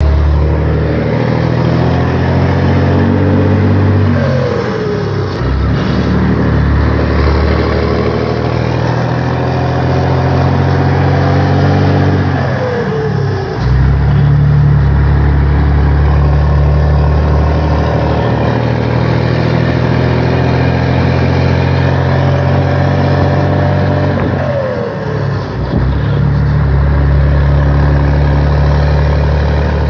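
Scania 113H 360's straight-piped six-cylinder diesel engine pulling steadily. Three times its pitch drops sharply with a brief dip in loudness, like the revs falling at upshifts.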